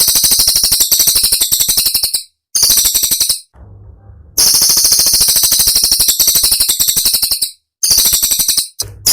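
Cililin songbird singing rapid, sharp, high-pitched trills of about ten notes a second. The runs break off for short pauses, twice near the middle and once near the end, and then start again.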